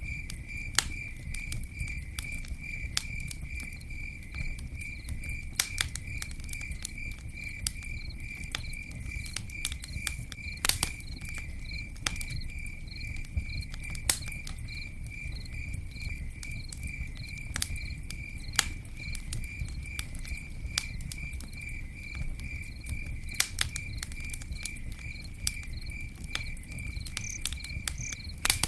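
Campfire burning, with irregular crackles and a few louder pops over a low steady rustle of flames. A steady high chirping, pulsing about three times a second, runs alongside it, like a cricket.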